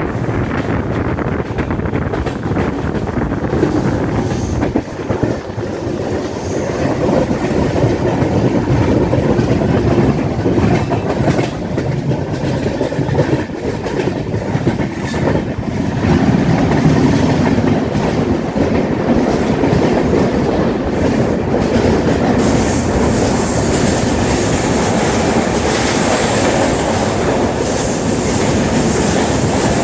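Swaraj Express passenger coaches running at speed, heard from on board: a steady rumble of wheels on rails with a rhythmic clickety-clack over the rail joints. Faint high-pitched squeaks come in during the second half.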